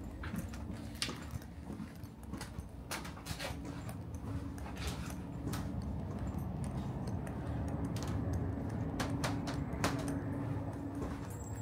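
Steady hum of a stationary Stockholm commuter train (pendeltåg) waiting to depart, with a constant low tone, overlaid by scattered sharp clicks and knocks.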